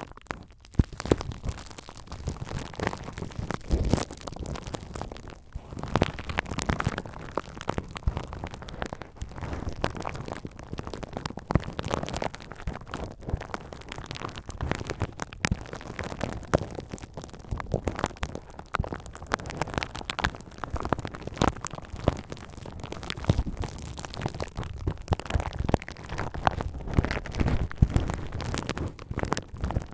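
Bubble wrap handled close to the microphone: a dense run of irregular crinkles and crackles, with scattered sharp pops.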